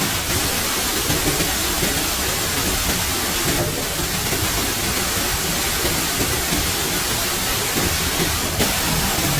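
Steady, loud rush of water noise, with a slight change in texture about four seconds in and again near the end.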